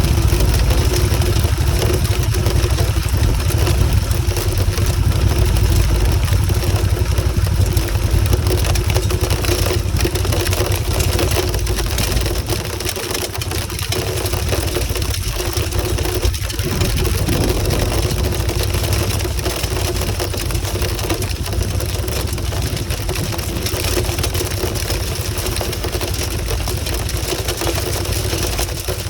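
Motorcycle engine running on the move, under heavy wind rumble on the microphone; the overall sound eases a little about twelve seconds in.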